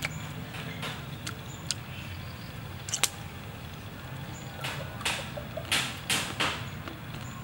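A person chewing crispy fried squid, with scattered sharp clicks and a sharp snap about three seconds in, then a quick run of loud crunches from about five to six and a half seconds in.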